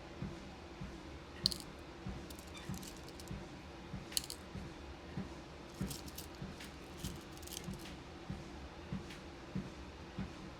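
Footsteps on a walking pad treadmill, a soft thud about every 0.6 seconds over the machine's steady hum. Beads click and rattle now and then as they are handled and sorted.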